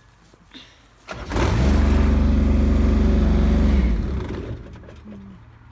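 Tractor engine starting about a second in, running steadily for a couple of seconds, then cutting out and winding down. The rider is said to be not heavy enough right after, which points to the seat safety switch killing the engine.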